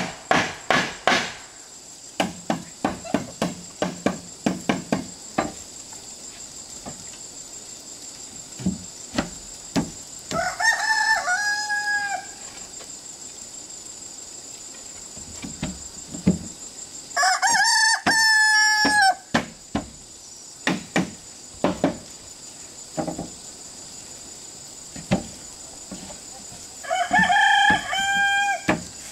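A rooster crows three times, with long, drawn-out calls about ten seconds in, around the middle and near the end. Between them come sharp knocks of a tool on wood, fast and repeated for the first few seconds, then scattered. A steady high insect buzz runs underneath.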